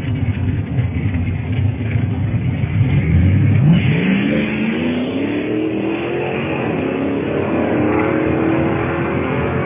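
A drag car's engine at the starting line, then launching and accelerating hard down the strip. It runs low and rough for about three seconds, jumps sharply in pitch at the launch, then climbs steadily in pitch as it pulls away.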